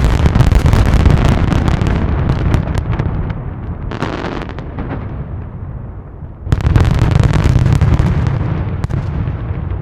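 Fireworks display: a dense volley of shell bursts and crackling bangs with a deep rumble, thinning out, then a sudden new loud barrage about six and a half seconds in that fades toward the end.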